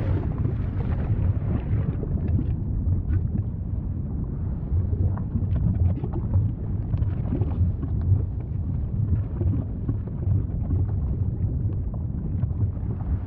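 Volcano rumbling in a deep, steady roar, with scattered faint crackles over it.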